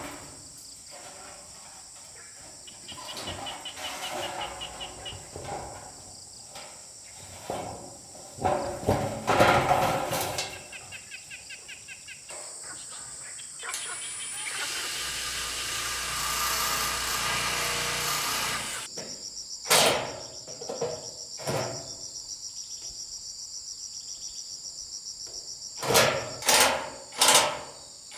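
Insects trill steadily in the background. Scattered knocks and a few seconds of rough scraping noise come midway, then a run of sharp hammer blows near the end.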